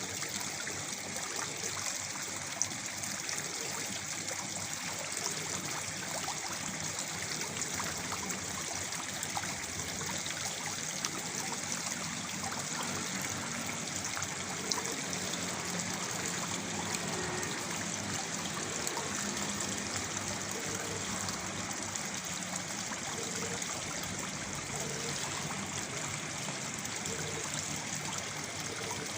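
A small waterfall pouring steadily into a pool, a continuous rush of splashing and trickling water.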